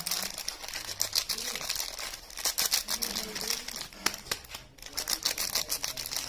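Soap wrapping crinkling and crackling as it is handled and unwrapped by hand: a dense run of small crackles, broken by a brief pause about four and a half seconds in.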